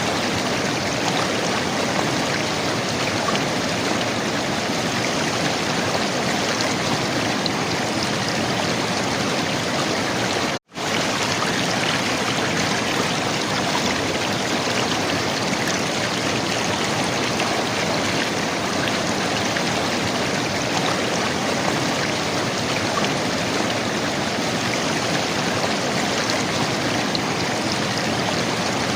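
River water running and gurgling in a steady rush, broken once by a split-second dropout to silence about ten seconds in.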